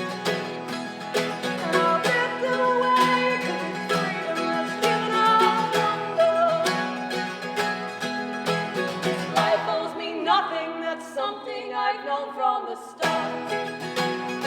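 Live acoustic folk song: strummed acoustic guitars under a sung melody. About ten seconds in the low strumming drops out for roughly three seconds, leaving the melody almost alone, then the full accompaniment comes back in.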